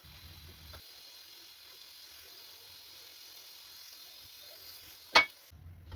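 Food sizzling in a cooking pan, a steady hiss, with one sharp clink about five seconds in.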